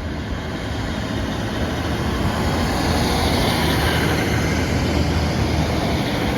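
A train running through the station: a steady rushing rumble with a low hum that grows slowly louder.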